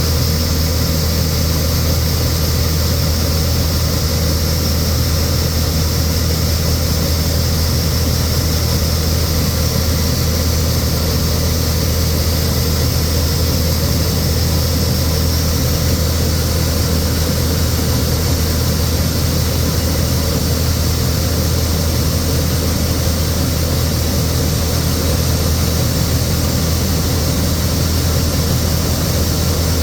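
1982 John Deere 6620 Turbo combine running steadily: a constant low diesel engine hum with a steady high hiss over it, holding an even pitch.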